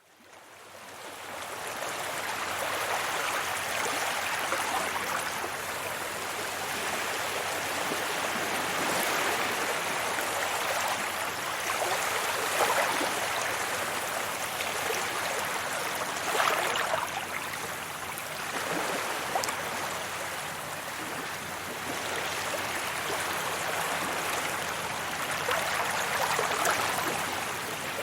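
Sea waves breaking and washing up a beach: a continuous rushing wash that swells and eases in surges every few seconds, fading in over the first two seconds.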